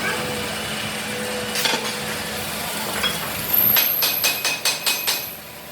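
A quick run of about eight sharp knocks, some five a second, about four seconds in, like hammer blows, over a steady hum of workshop machinery.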